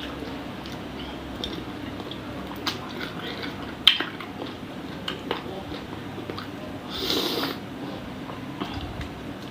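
Close-up eating sounds of a person chewing chicken-feet satay in Padang sauce: wet chewing and small mouth clicks scattered throughout, with a sharp click about four seconds in and a louder brief noisy sound around seven seconds.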